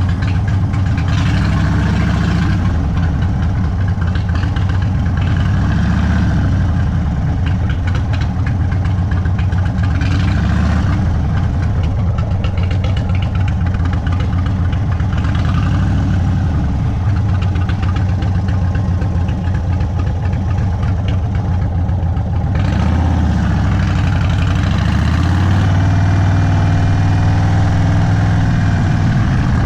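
Indian Sport Chief's Thunderstroke 116 V-twin running at low revs through an aftermarket Sawicki Speed exhaust, its pitch rising and falling a few times as the throttle is rolled on and off at slow riding speed. About three quarters of the way through, the engine note steps up a little louder.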